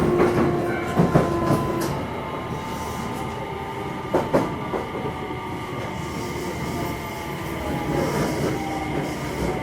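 Onboard running sound of a JR West 227 series motor car with a Hitachi IGBT VVVF inverter: a steady rumble with faint inverter and traction-motor tones over it. A couple of sharp knocks come from the wheels, about a second and about four seconds in.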